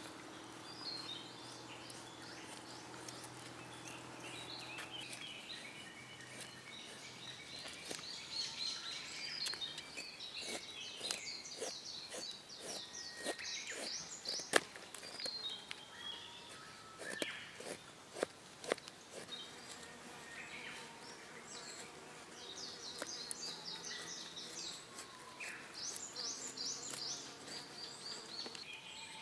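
Wild birds chirping and singing in short repeated phrases, with scattered sharp clicks, the loudest about halfway through.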